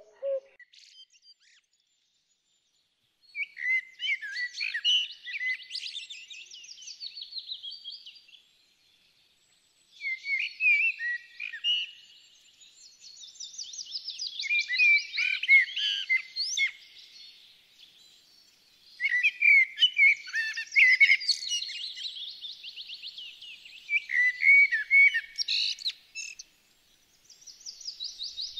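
A bird singing long runs of quick, varied chirps and trills, with brief pauses between the phrases.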